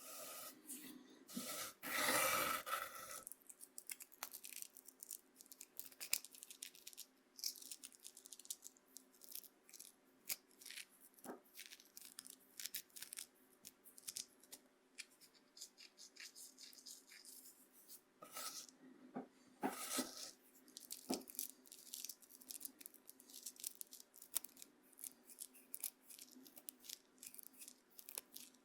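Coarse corn meal scraping and crackling on a bamboo cutting board: a dense run of soft, scratchy grains, with a louder, longer sweep about two seconds in and another near twenty seconds in.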